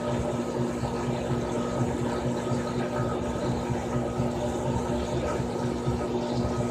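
Frigidaire Gallery Series top-loading washing machine running: a steady motor hum with a fast, uneven low churning underneath.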